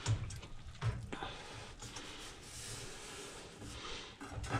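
Faint handling sounds: a few soft knocks in the first second or so, then light rubbing.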